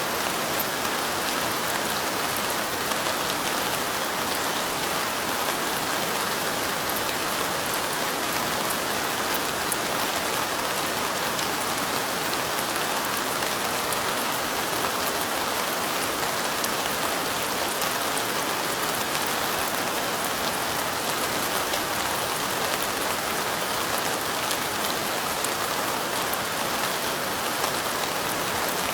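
Steady light rain falling, a dense even patter of drops with faint fine ticks, as of raindrops hitting a window.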